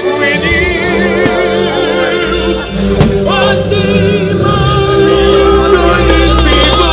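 Loud choral singing with orchestral accompaniment, the voices wavering with vibrato over held low notes, with a single sharp bang about three seconds in.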